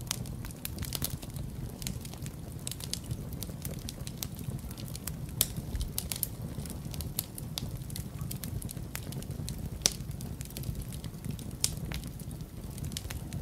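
Wood fire crackling in a fireplace: irregular sharp snaps and pops over a steady low rumble, with a few louder pops about five, ten and twelve seconds in.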